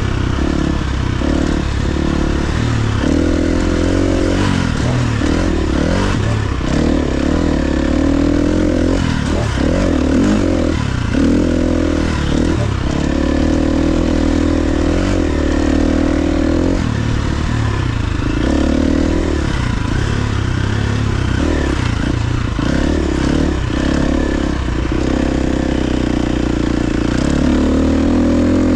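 KTM 350 XC-F dirt bike's single-cylinder four-stroke engine running while being ridden, its pitch rising and falling again and again as the throttle is opened and closed.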